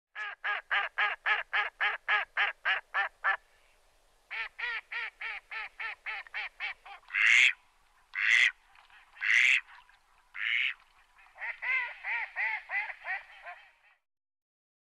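Bird calls: a quick series of evenly repeated calls, about four a second, a short pause and a second series, then four loud harsh screeching calls and a last, softer series.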